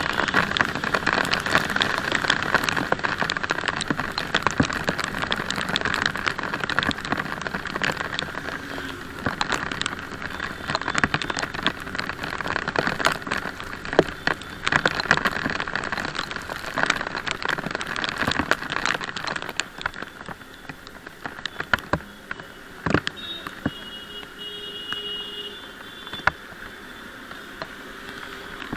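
Raindrops pattering and crackling on the camera's microphone on a moving motorcycle, over a steady hiss of wind and wet road. The drops thin out and the sound gets quieter after about twenty seconds.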